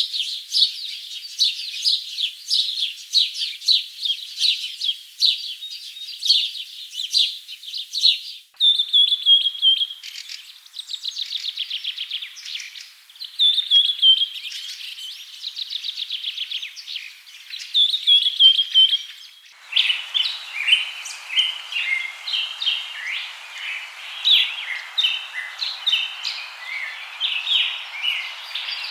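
Birds chirping and singing: dense quick chirps at first, then rapid trills and short falling phrases, then mixed calls over a steady forest hiss. The sound changes abruptly twice.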